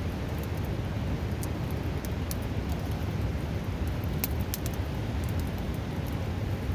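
Steady rush of a river, with a wood campfire crackling in sharp, scattered pops over it.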